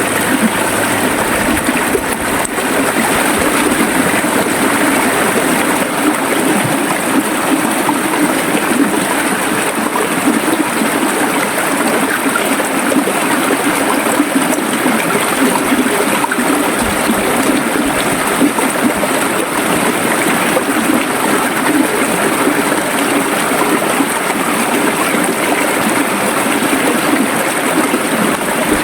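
A river running steadily over rocks, a continuous rushing and gurgling of flowing water.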